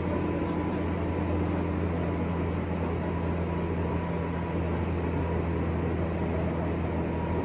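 JR West 201 series electric train running between stations, heard from inside the motor car: a steady rumble of motors, wheels and rails with a faint steady whine.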